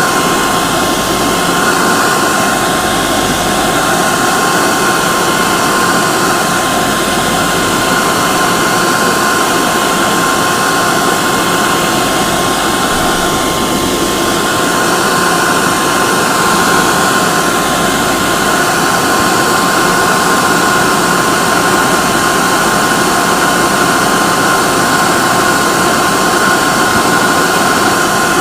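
Hair dryer running continuously: a steady loud rushing of air with a constant motor whine.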